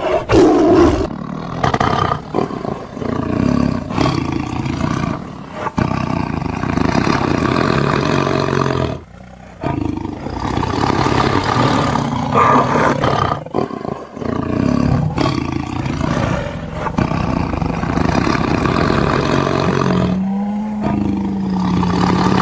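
Big cat roaring and growling almost without pause, with a short break about nine seconds in.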